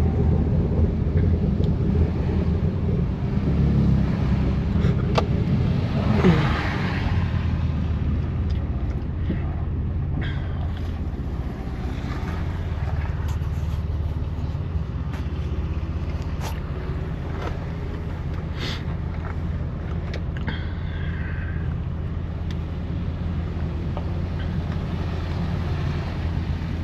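BMW F80 M3 Competition's twin-turbo inline-six, with catless downpipes and an exhaust whose valves are always open, running steadily at low revs as a low drone. A brief whoosh of road noise comes about six seconds in.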